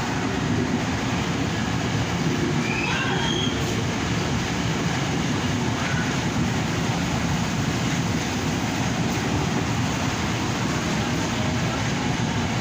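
A train running through the station with a steady rumble. Faint brief wheel squeals come about 2 to 3 seconds in and again around 6 seconds in.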